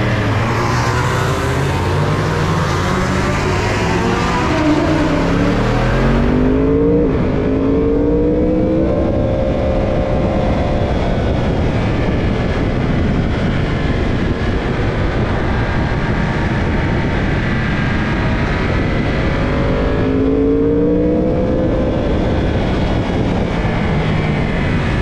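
Racing motorcycle engine heard from onboard, accelerating out of the pit lane and onto the track, its pitch rising with the throttle and shifting sharply about seven seconds in and again near twenty-one seconds, under heavy wind rush.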